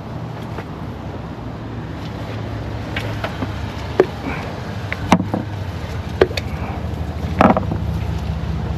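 Ignition coils being pulled up out of the spark plug wells of a 3.6 L V6 and handled, giving a few sharp clicks and knocks over a steady low hum.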